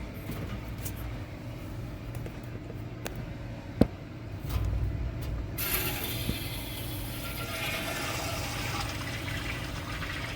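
Water rushing into a newly plumbed tank water heater as the supply is opened: a sharp click about four seconds in, then a steady hiss of flowing water from about five and a half seconds on.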